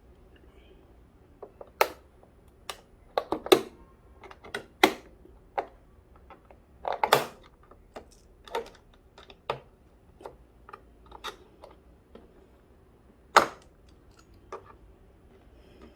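Irregular plastic clicks, snaps and knocks as the control panel of a Cartour TW45 camping fridge is pried loose from its housing, with a few sharper cracks among lighter taps.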